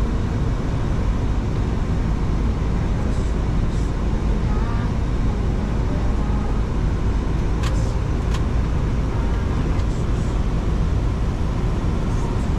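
Steady cockpit noise of a Boeing 737-800 in flight: a low rushing roar of airflow and air conditioning on the flight deck, with two faint clicks about two-thirds of the way in.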